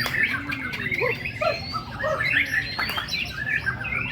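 A young pastol bird, about eleven months old, practising its song: a busy, rambling run of short chirps and whistled notes that is not yet a finished adult song.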